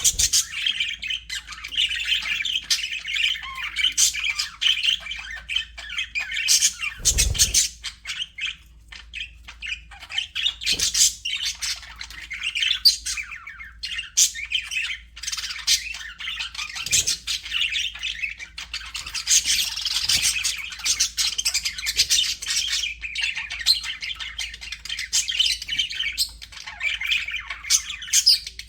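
A flock of budgerigars chattering and squawking continuously, many birds calling over one another in quick warbles and chirps. A brief low thump comes about seven seconds in.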